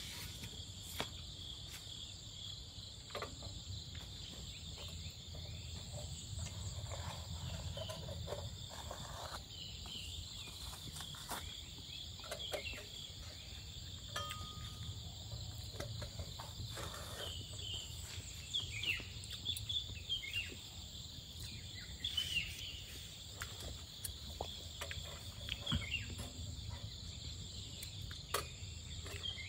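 Steady, high-pitched chorus of crickets and other insects, with scattered light clicks and knocks that come more often in the second half.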